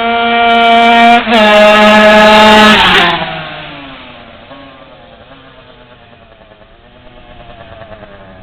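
Pit bike with a Derbi engine running at high revs, with a brief break about a second in, then fading quickly into the distance about three seconds in and going on faintly as the revs rise and fall.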